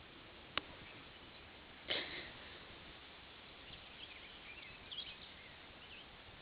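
Quiet field ambience with one sharp click, then a brief louder rustling burst about two seconds in, and faint bird chirps later on.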